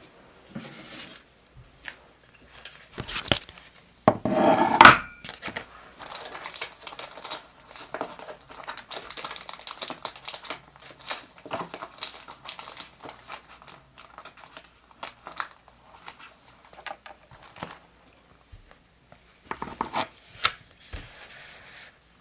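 Paper diary-decorating materials being handled: crinkling, rustling and small clicks, with a louder, longer crinkle or tear about four seconds in and another cluster of rustles near the end.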